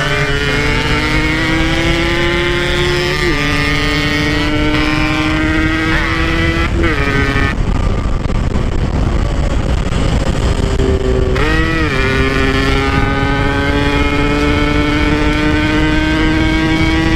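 Motorcycle engine riding a trail, its pitch climbing steadily then dropping at gear changes about three and seven seconds in; the note goes duller for a few seconds in the middle, then picks up and climbs again. A steady low rumble runs underneath.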